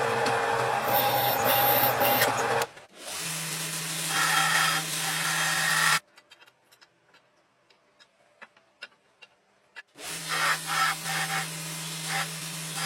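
An electric workshop machine running with a steady hum and a rubbing, grinding noise, broken by cuts. For about four seconds in the middle there is near silence with faint scattered ticks.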